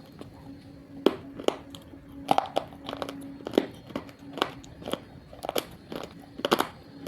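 Roasted multani mitti (fuller's earth clay) being bitten and chewed, with sharp, brittle crunches coming irregularly about one to two a second from about a second in. A steady low hum runs underneath.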